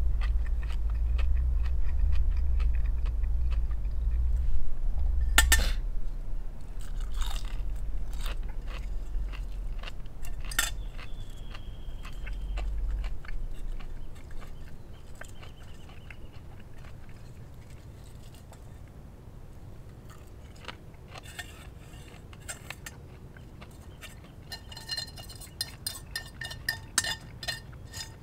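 Close-up chewing and crunching of crispy bacon, with scattered clicks and knocks and a low rumble through the first half. Near the end come a run of light clinks, as of utensils or dishes.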